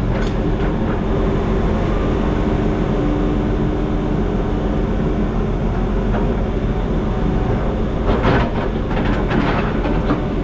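Excavator engine running under load, its hydraulics working as the bucket pulls at a concrete slab. A steady whine holds for a few seconds, and near the end comes a cluster of knocks and scrapes.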